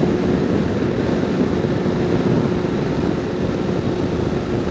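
Wind rushing over the microphone mixed with the steady drone of a Suzuki Katana 750's inline-four engine at highway cruise.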